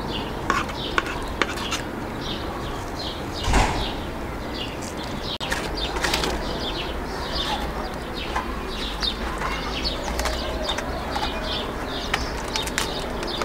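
Small birds chirping again and again. There are a few sharp clicks in the first second and a half and a thump about three and a half seconds in, over a steady low rumble.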